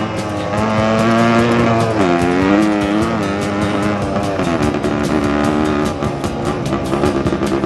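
Dirt bike engine running under load, its pitch holding steady and then rising and falling as it is revved and shifted.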